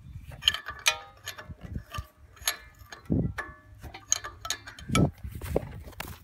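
Hand tools working on a lawn mower's metal parts: irregular sharp clicks and clinks, some ringing briefly, with two dull thumps about three and five seconds in.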